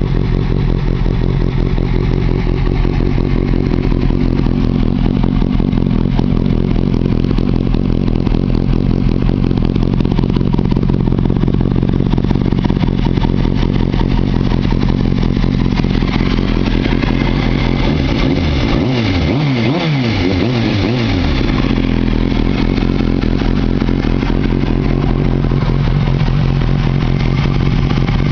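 2005 Kawasaki ZX-6R's 636 cc inline-four running through a Boz Bros slip-on race-core exhaust, idling steadily. About two-thirds of the way through, a few quick throttle blips make the pitch rise and fall before it settles back to idle.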